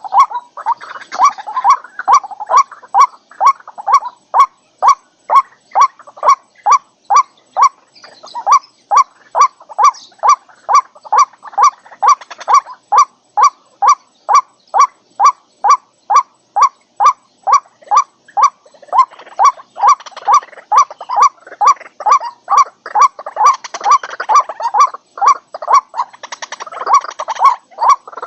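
White-breasted waterhen calling: a short note repeated steadily about twice a second, with rougher chattering calls swelling behind it at times, mostly near the start and through the last third.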